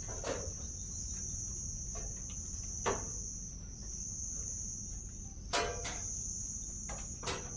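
Insects trilling steadily on one high, unbroken note, with a few short sharp sounds scattered through it, the loudest about three seconds and five and a half seconds in.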